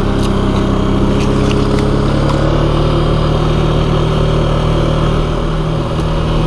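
ATV engine running steadily as it is ridden along a rough trail, its note easing down a little about two seconds in, with a few light clicks and knocks early on.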